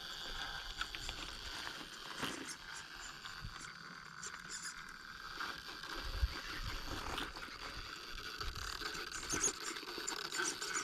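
Radio-controlled rock crawler's small electric motor whining steadily as it crawls, with its tires and chassis scraping and clicking over rock.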